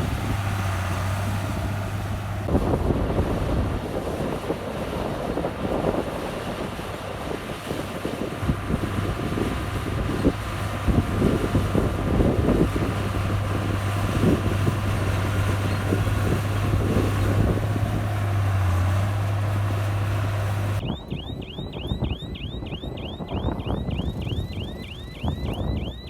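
Komatsu bulldozer's diesel engine running steadily, with clattering and scraping as it works the soil. Near the end the sound cuts to a quieter stretch with a fast, repeated high chirping, about four a second.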